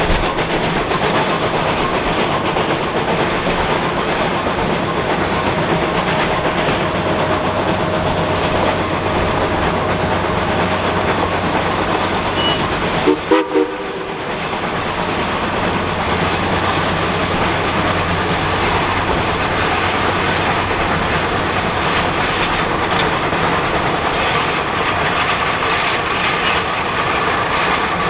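Geared steam locomotive running along the line: a steady, dense clatter of exhaust and running gear, with a brief break about halfway through.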